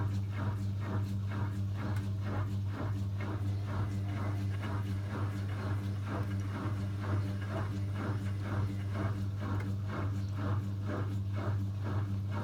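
Zanussi ZWC 1301 washing machine turning its drum at balancing speed before the spin, with a steady motor hum and an even, rhythmic knocking about three times a second as it tries to balance the load.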